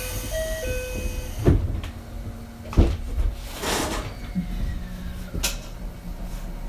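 Door chime on the Ichibata 7000-series railcar, then two heavy knocks of the doors, a short hiss of air about three and a half seconds in, and a click. A low steady hum from the car's electrical equipment starts midway as the car gets ready to move off.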